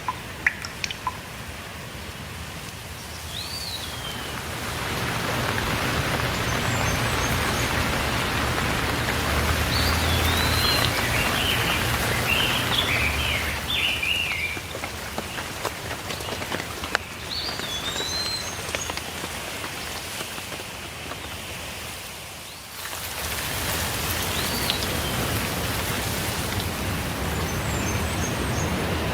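Steady rain falling, swelling about five seconds in and easing briefly near the end, with birds calling now and then over it: a few short slurred whistles and one quick run of chirps.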